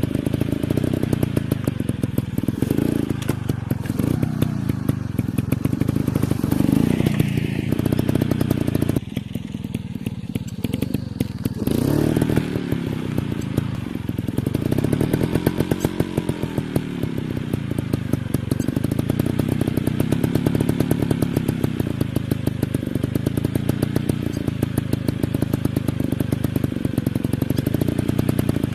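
Dirt bike engines running and revving, the pitch rising and falling several times, with a brief dip in loudness about nine seconds in.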